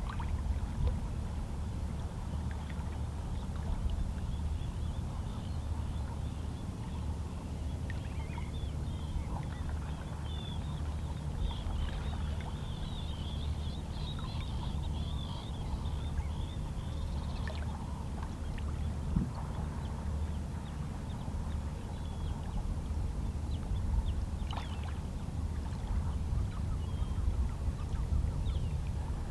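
Calm sea with small waves lapping against shoreline rocks over a steady low rumble of water. Faint seabird calls chatter for several seconds around the middle.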